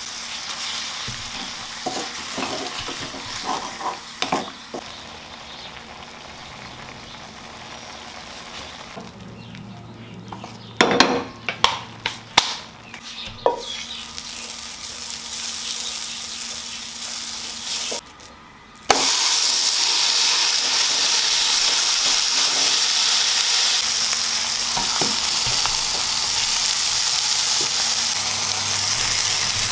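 River mussels sizzling in a frying pan while a wooden spatula stirs them, knocking and scraping against the pan, with a cluster of sharp knocks a little past ten seconds in. After a brief dip, a louder, steady sizzle of a mutton patty and burger buns frying in oil.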